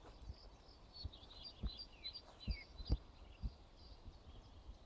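Faint birdsong: a run of quick high chirps and a short falling whistle about two and a half seconds in. A few soft low thumps come through under it.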